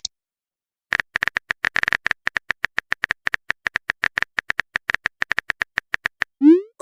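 Typing sound effect: a quick, slightly uneven run of light keyboard clicks, about eight to ten a second, starting about a second in and stopping shortly before the end.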